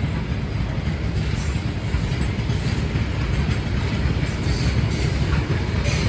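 Passenger train running along the track, heard from on board: a steady rumble of wheels and coaches.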